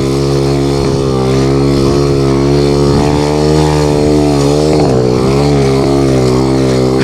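Pit bike's small single-cylinder engine running hard at fairly steady revs, its pitch wavering slightly up and down as it works through snow.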